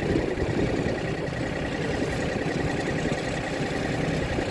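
Engine of a farm tour train running steadily, with a faint steady whine over the rumble.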